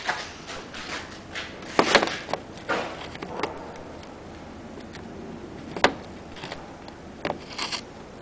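Handling noise: scattered knocks, clicks and rubbing, with a cluster about two seconds in, one sharp click near six seconds, and a few more near the end.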